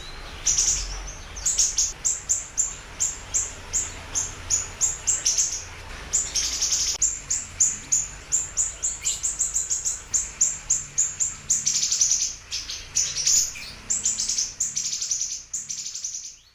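Siri-siri songbird singing a fast, continuous run of short, high, sharp chirps, several a second, which stops near the end.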